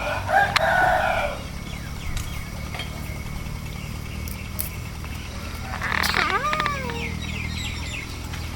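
A rooster crowing, its long held note ending about a second and a half in, then another call about six seconds in whose pitch rises and falls, over a steady low hum.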